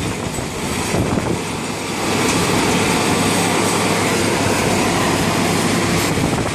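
Demolition machinery working on a concrete building: a loud, steady heavy mechanical noise with a few knocks, growing louder about two seconds in.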